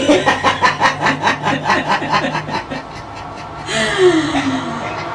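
A person laughing hard in quick, rhythmic ha-ha bursts for about two and a half seconds, followed about four seconds in by a short voice sound that falls in pitch.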